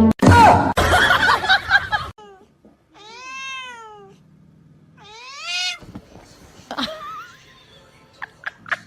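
A domestic cat meowing twice, the first call rising and falling, the second rising. Before the meows, for about the first two seconds, there is a loud harsh noise.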